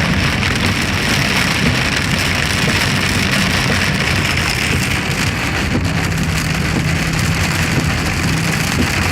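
Heavy monsoon rain falling steadily on a moving car, with the low, even hum of the car's engine and tyres beneath it.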